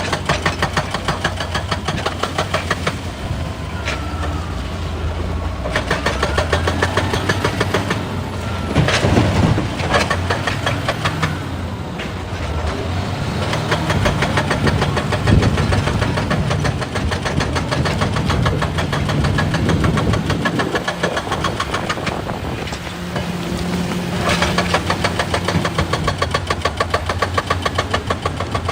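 Excavator's diesel engine running with a rapid, even knocking beat, its speed rising and falling as the machine works, with a brief squeal a few seconds in.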